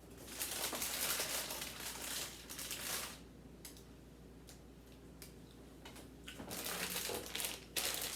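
Plastic food packaging crinkling and rustling as it is handled, in two stretches: from about half a second in to about three seconds, and again near the end.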